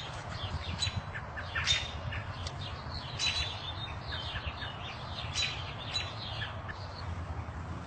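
Birds calling: a busy run of short, high chirps, with a louder call every second or two, over a low steady rumble.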